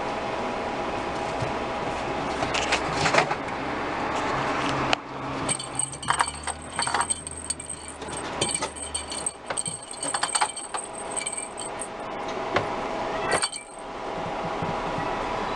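Light metallic jingling and clinking with many short clicks from about five seconds in, stopping near the end. A steady hum sits underneath for the first few seconds.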